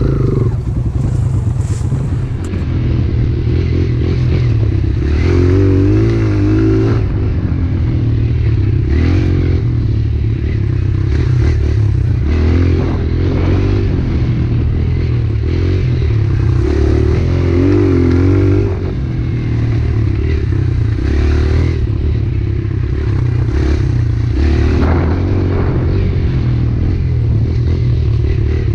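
Pit bike engine running under load as the bike is ridden, the revs rising and falling every few seconds with throttle and gear changes.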